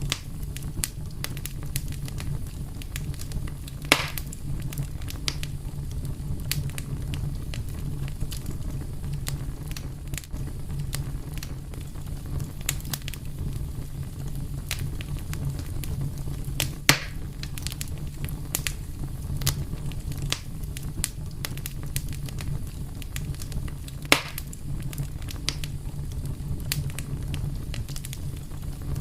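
Wood fire burning with a steady low rumble and a constant scatter of small crackles, with three louder pops about 4, 17 and 24 seconds in.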